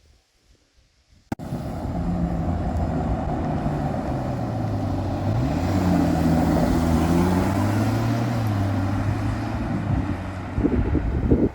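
Ferrari 12Cilindri Spider's 6.5-litre F140 V12 catching suddenly about a second in, then running loud and steady at idle, with the pitch stepping up briefly midway and some uneven bursts near the end.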